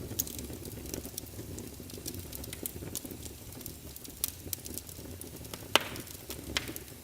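Wood fire burning in a fireplace: logs crackling with scattered sharp pops over a low steady rumble of flames. The loudest pop comes a little before the end.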